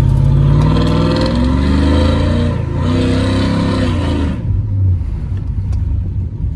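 Cammed 5.3 L V8 breathing through a Carven R Series muffler, pulling hard under throttle. The pull breaks briefly about two and a half seconds in, then the engine eases off to a low rumble a little past four seconds.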